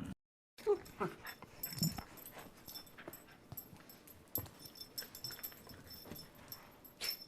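Dog giving a few short, soft whining cries in the first two seconds, then faint scattered clicks and shuffling.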